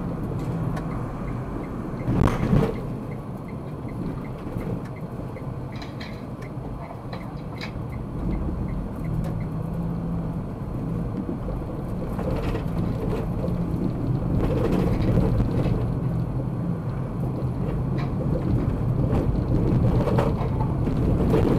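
Car driving, with steady engine and road noise picked up by a dashcam. There is a short loud thump about two seconds in, and the noise grows a little louder in the second half.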